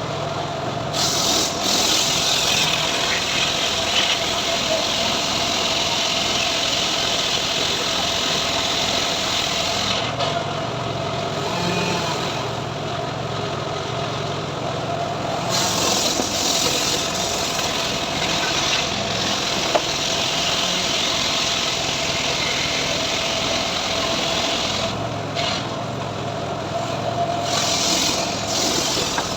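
Home-built srekel sawmill running steadily, its engine and blade drive making a constant hum with a steady whine. Stretches of louder, brighter hiss come and go: the first about a second in, a long one from about halfway to near the end, and another just before the end.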